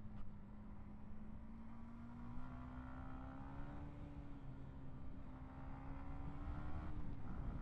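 Yamaha MT-125's single-cylinder four-stroke engine running under way, its note rising slowly for a few seconds, then holding. Near the end it dips briefly and picks up again. A low rumble of road and wind noise runs beneath it.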